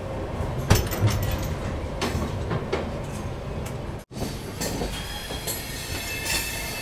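Jan Shatabdi Express passenger coach rolling slowly out of the station: a steady running rumble with irregular clacks as the wheels cross rail joints.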